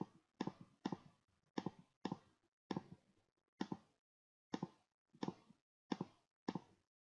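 Computer mouse clicking about a dozen times at uneven intervals, each click a faint, quick double tick.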